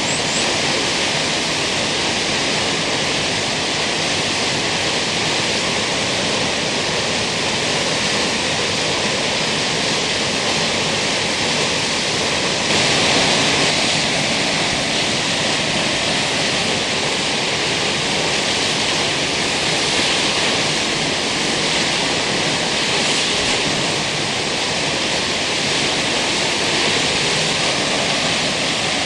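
Kegon Falls waterfall pouring steadily: an even, continuous rush of falling water, swelling slightly about thirteen seconds in.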